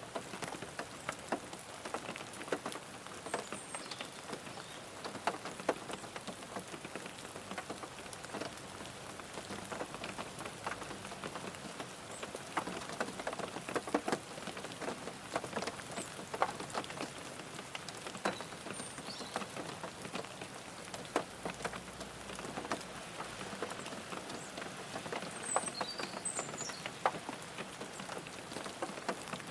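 Steady rain falling on a car, individual drops tapping sharply and irregularly over a constant patter, with a few faint high chirps now and then.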